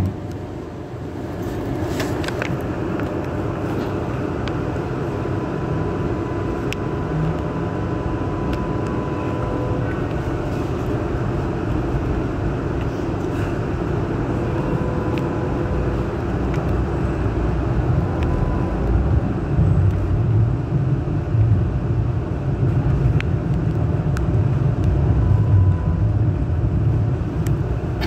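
Hong Kong Light Rail Phase I light rail vehicle running, heard from inside the car: a steady rumble of wheels on rail with a faint whine that comes and goes. The rumble grows louder in the second half.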